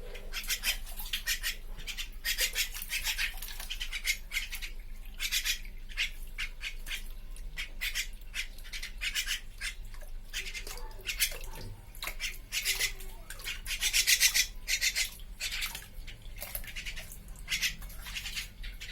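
Javan myna bathing, fluttering its wings in water in repeated short splashy bursts.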